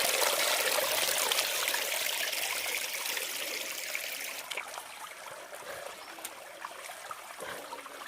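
Forest stream running, a steady rushing of water that fades gradually over several seconds, with a few faint clicks.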